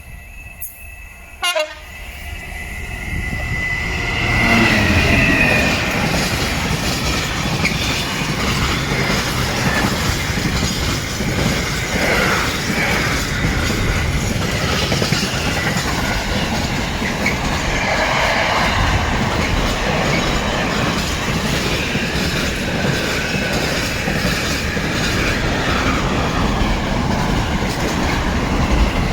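Freight train passing at speed. It sounds its horn on the approach about four seconds in, then its wheels clatter over the rail joints for over twenty seconds.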